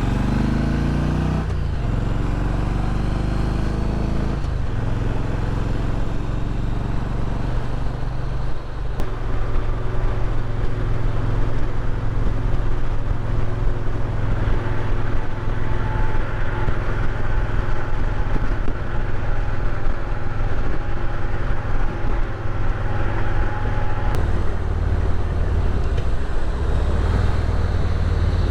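Motorcycle engine pulling away and accelerating, rising in pitch through a couple of gear changes in the first few seconds, then running steadily at cruising speed with wind and road noise.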